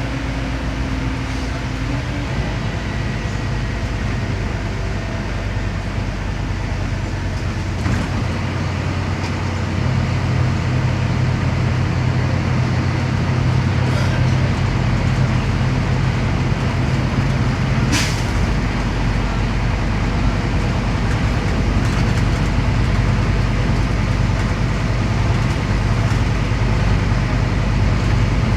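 Scania CN270UB city bus heard from inside: its diesel engine runs steadily over road noise and gets louder about ten seconds in as it pulls harder. One short, sharp noise comes near the middle.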